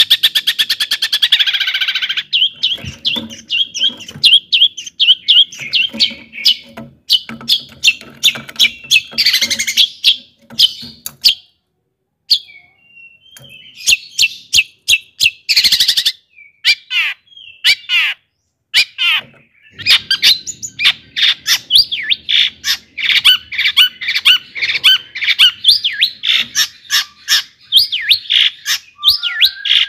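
Long-tailed shrike (cendet) singing a fast, varied song of rapid chirps and harsh squawking notes, full of phrases mimicked from other birds, broken by two short pauses.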